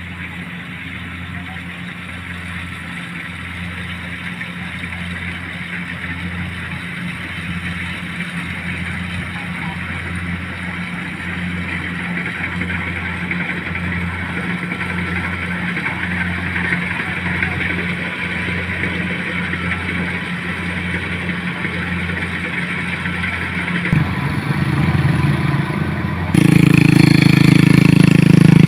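Motorcycle engine running steadily and slowly growing louder, with abrupt jumps in loudness about 24 seconds in and again near the end.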